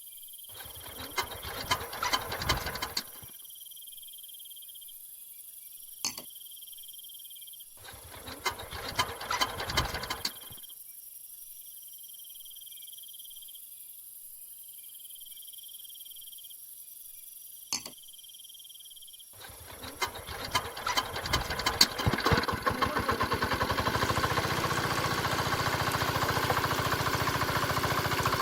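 Mini diesel engine being started: twice it sputters for a couple of seconds and dies. The third time, about twenty seconds in, it catches and settles into steady running.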